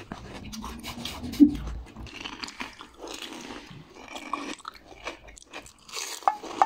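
Crisp pani puri shells being bitten and chewed: small crunches and crackles, with one sharp, louder crunch about a second and a half in.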